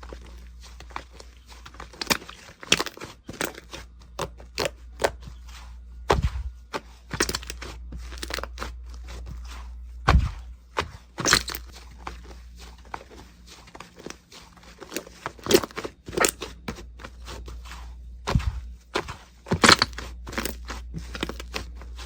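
Slime being pressed and worked by hand, giving irregular crackling pops and crunches, a few every second, with some much sharper than the rest.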